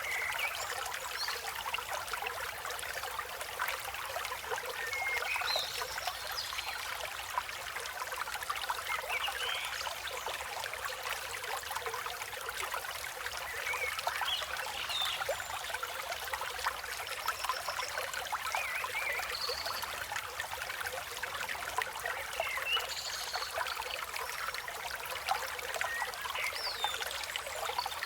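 River water flowing and trickling steadily over rocks, with birds chirping at intervals through it in short calls and whistles.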